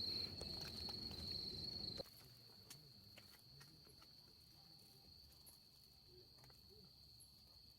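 Insects trilling in one steady, unbroken high-pitched tone, faint. A low rumbling background noise drops away about two seconds in, leaving the trill nearly alone.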